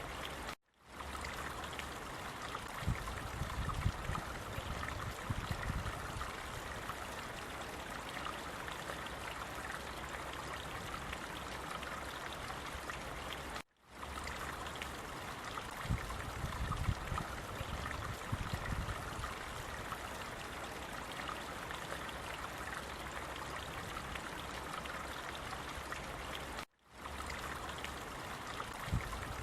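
Flowing water running steadily, like a stream, with bouts of low rumble underneath. The sound cuts out for a split second three times, about every thirteen seconds.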